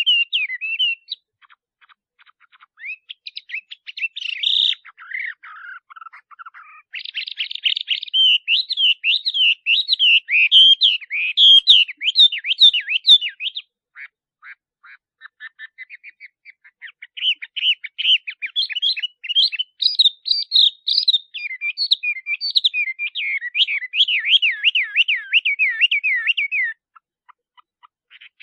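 Male Chinese hwamei singing in long, rapid runs of sweeping, repeated whistled notes. The phrases are broken by pauses of a second or two, and the loudest runs come in the middle and second half.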